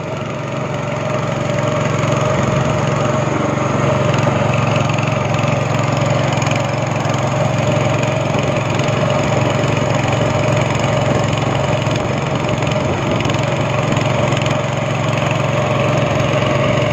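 Speedboat engine running steadily under way, a constant loud drone with no change in speed.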